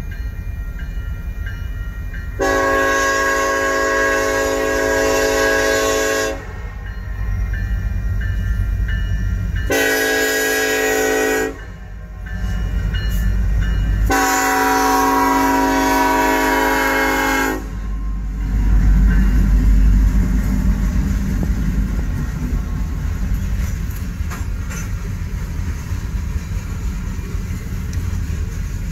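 Freight train's locomotive horn sounding a long, a short and a long blast for the grade crossing. The locomotive then passes with a heavy rumble about eighteen seconds in, followed by the steady rolling rumble and clickety-clack of freight cars going by.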